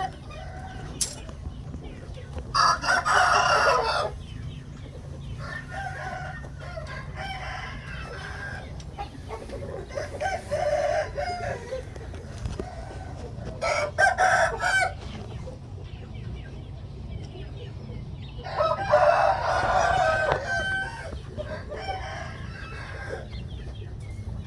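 Roosters crowing, with four loud crows of a second or two each and quieter clucking and calls between them.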